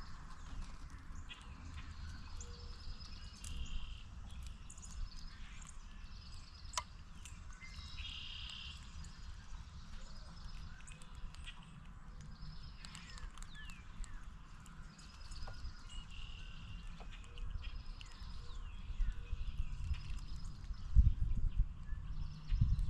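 Wild birds chirping and calling again and again over a steady low rumble of outdoor noise. Near the end come loud, close low thuds.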